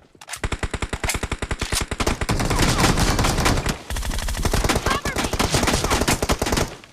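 Video-game automatic gunfire: rapid, sustained machine-gun fire in quick, evenly spaced shots, with a brief lull about four seconds in. It stops just before the end.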